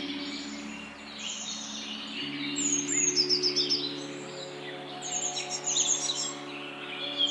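Wild birds singing in a morning chorus: a bright, rapid trill of short falling notes recurs three times, with softer chirps between, over a steady low hum.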